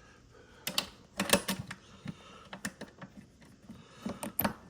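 Irregular plastic clicks and knocks from handling the Hoover Celebrity QS canister vacuum's bag compartment and lid, a few sharp taps spaced unevenly.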